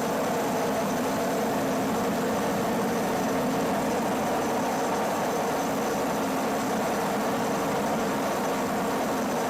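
A steady engine drone under a constant hiss, with no change in level.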